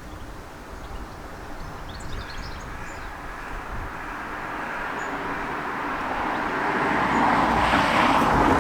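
A car approaching and passing close by, its noise growing steadily louder to a peak near the end, then starting to fade.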